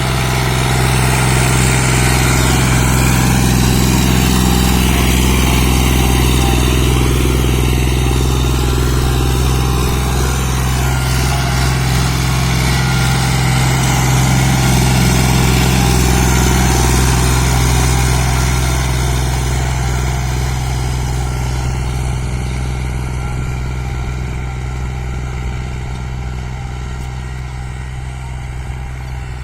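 Diesel tractor engine running steadily and loud, easing off gradually over the last several seconds.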